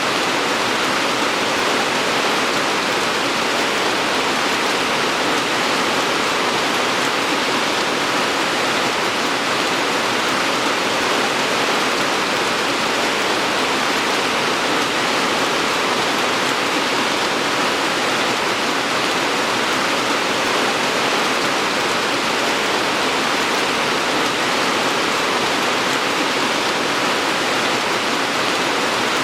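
Steady rain falling, a continuous even hiss with no distinct drops or pauses.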